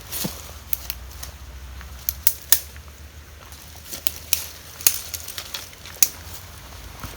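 A series of irregular sharp snaps and clicks, about a dozen in all, the loudest about two and a half seconds in, another about five seconds in and another about six seconds in.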